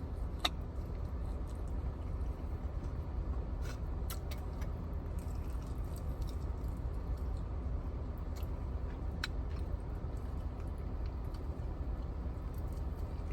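A person chewing food quietly, with a few faint small clicks, over a steady low background hum.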